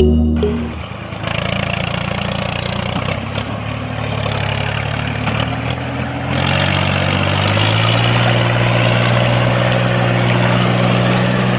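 Small electric motor running steadily with a low hum and a rattling hiss; the hum settles and the hiss grows louder about six seconds in.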